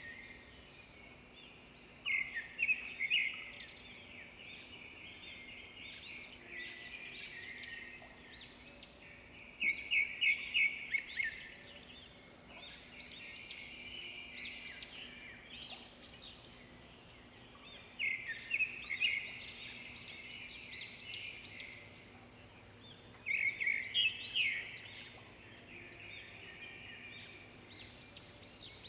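Songbirds chirping and twittering without pause, with a louder burst of quick chirps four times, roughly every six to eight seconds.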